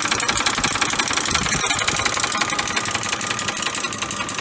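Ford F-150 three-valve V8 idling with a loud, rapid, steady rattling knock. It is typical of a worn timing chain, and the mechanic hears more than the chain in it; the engine's bearings turn out to be scarred.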